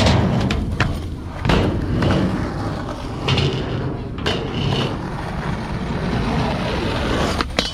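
Skateboard wheels rolling with a steady low rumble, broken by several sharp clacks of the board hitting the ground.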